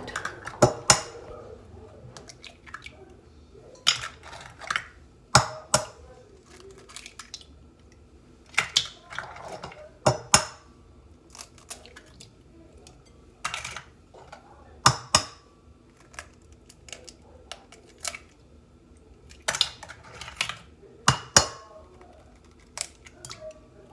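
Eggs being cracked against the rim of a bowl: sharp taps and knocks, often in pairs, every few seconds.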